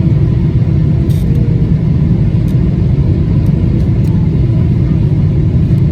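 Boeing 777-300ER cabin noise: a loud, steady low rumble of the airliner on or near landing, with no rise or fall.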